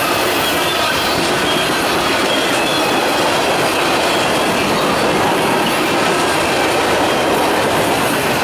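Freight train cars rolling past close by: a steady rumble of steel wheels on rail, with a faint high-pitched wheel squeal.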